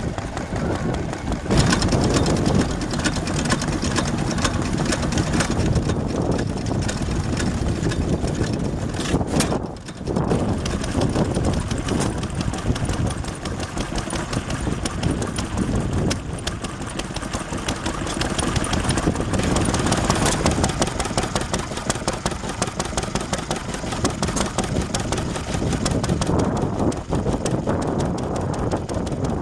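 Vintage stationary engine running steadily with a fast, even beat; the sound dips briefly about ten seconds in and then carries on.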